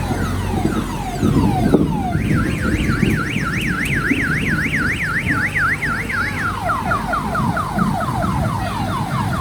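Electronic siren cycling through its tone patterns: falling sweeps, then a fast up-and-down warble about four times a second, then rapid falling whoops about four a second, over a low rumble of motor and street noise.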